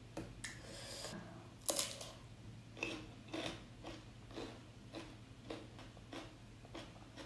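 A person chewing and biting food close to the microphone: a string of short, irregular crunches and mouth clicks, roughly two a second.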